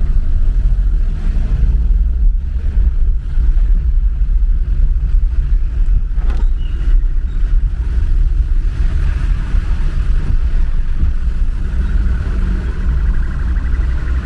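Car being driven, heard as a steady low rumble of engine and road noise. There is a single sharp tick about six seconds in, and a faint high whine in the last few seconds.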